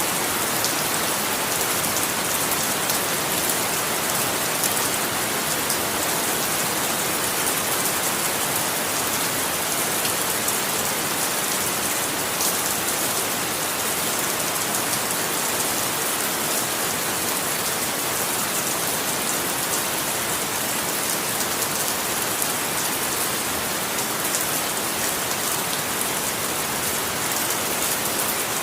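Steady heavy rain falling, a continuous even hiss with the patter of individual drops.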